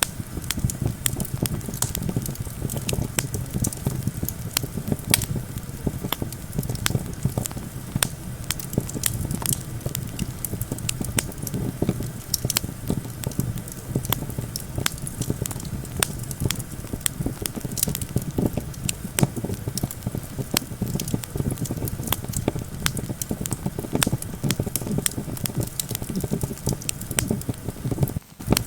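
Wood campfire crackling with frequent sharp pops, over a steady low rumble of wind. The sound drops out for a moment near the end.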